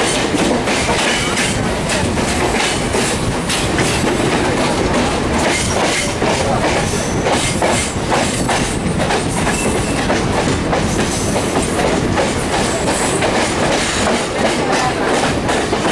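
Indian Railways express train's coaches passing close by on the adjacent track, a loud steady rolling rumble with the clickety-clack of wheels over rail joints, heard from an open carriage doorway.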